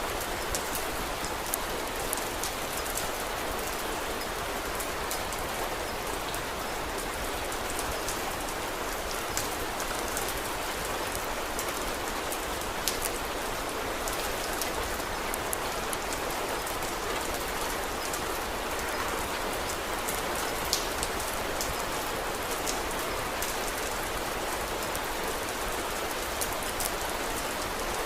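Steady rain falling, an even hiss with scattered sharp ticks, a few of them slightly louder.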